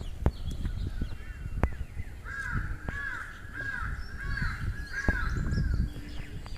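A bird calling over and over: about six short, arched, caw-like notes in a quick run from about two seconds in to about five and a half seconds in, with fainter high chirps from other birds. Under it runs a steady low rumble, with a few sharp clicks.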